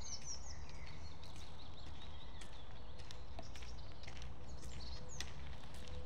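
Small songbirds chirping and calling in a woodland, with quick curved whistled notes near the start and more sharp high chirps around five seconds in, over a steady low rumble.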